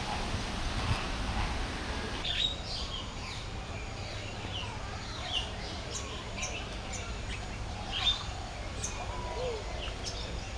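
Several birds chirping: short, sharp calls, many of them falling in pitch, scattered irregularly over steady background noise.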